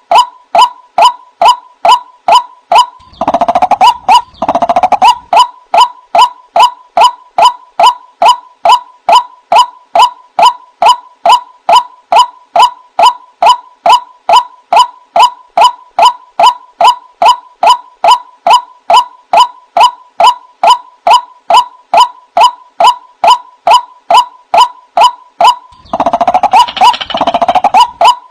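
A white-breasted waterhen (keruak) call, repeated in a machine-steady rhythm of about two and a half short notes a second, typical of a recorded call looped as a trapping lure. It is broken twice, about three seconds in and near the end, by a louder, rougher burst of calling.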